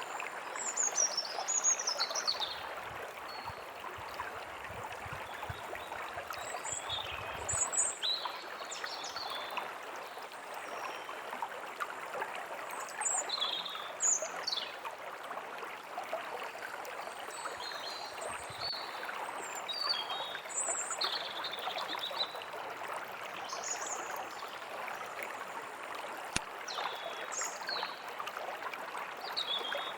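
Forest ambience: a stream of running water flowing steadily, with birds chirping and singing short, high, falling phrases on and off throughout.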